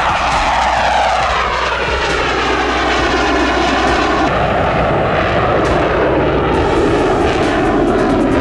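Fighter jet flying past: loud, steady engine noise with a whine that slowly falls in pitch as it goes by.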